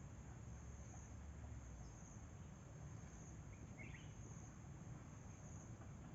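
Crickets trilling steadily in one continuous high-pitched trill that swells and fades about once a second, over a faint low rumble. A single short chirp cuts in about four seconds in.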